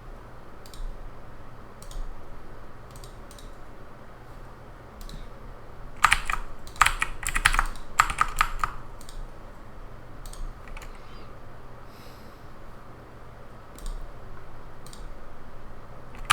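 Typing on a computer keyboard: scattered single clicks, then a quick run of loud keystrokes about six seconds in lasting a couple of seconds, then scattered clicks again, over a steady low hum.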